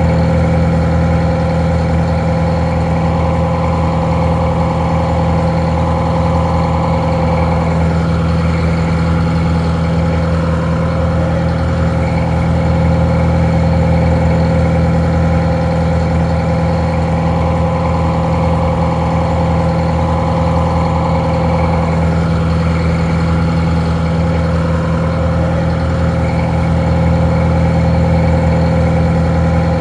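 Detroit Diesel 4-71 two-stroke inline four-cylinder diesel idling at a steady, even speed, sounding a little muffled.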